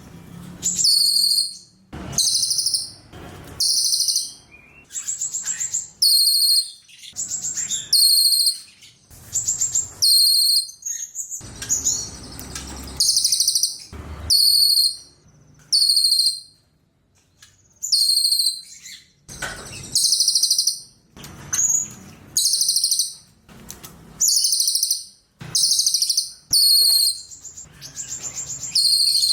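Cililin songbird singing: short, very high-pitched bursts of rapid chirping, repeated about every one to two seconds with brief pauses between.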